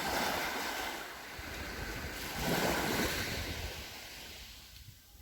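Sea waves washing onto the shore, surging twice about two and a half seconds apart and fading near the end, with wind rumbling on the microphone.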